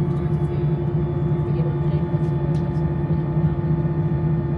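Steady drone inside an Airbus A319's cabin on the ground with the engines running, a constant low hum with a few steady tones above it.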